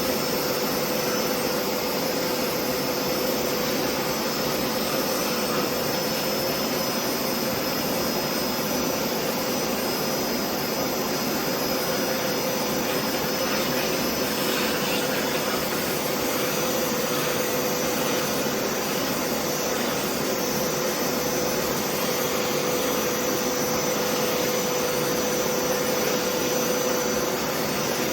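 Hoover Deluxe PowerScrub carpet cleaner running steadily: the suction motor's constant rushing noise with a steady whine.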